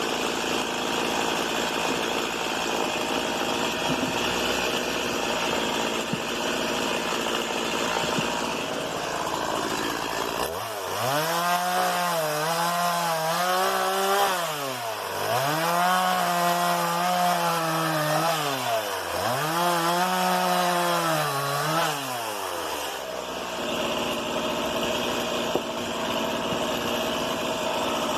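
Stihl MS 170 two-stroke chainsaw idling, then run up to high speed three times, each for about three seconds, dropping back to idle in between before settling to idle again.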